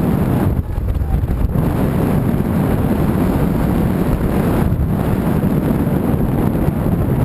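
Wind rushing over the microphone with the steady low rumble of a moving vehicle, with brief dips in the hiss about a second in and again near the five-second mark.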